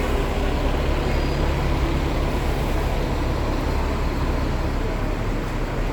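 Steady low rumble of city street traffic, engines and tyres, with general urban background noise.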